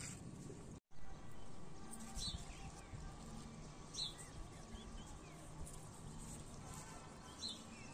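A bird calling outdoors: three short, sharp chirps with a falling tail, spaced a second or more apart, over faint steady background noise.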